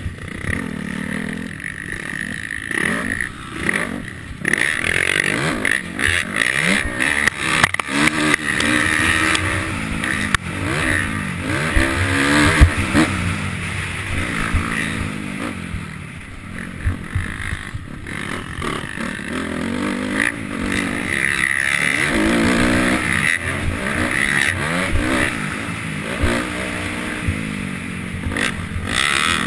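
Motocross bike engine heard through a helmet-mounted camera, revving up and dropping back over and over as the rider accelerates and shifts, with a rushing noise and short knocks throughout.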